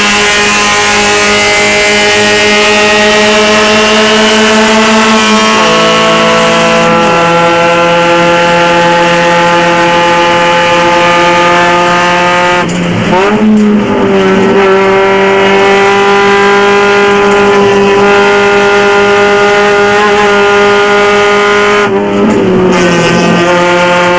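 1989 Honda race car's engine running hard at high revs, heard from inside the cabin, with a steady strong note. The note breaks and shifts briefly three times, around 6, 13 and 22 seconds in.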